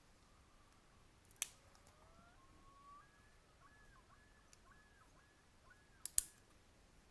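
A distant bird calls faintly: a rising whistled glide, then a series of about six repeated arched notes at roughly two a second. Two sharp clicks stand out above it, about a second and a half in and again just after six seconds.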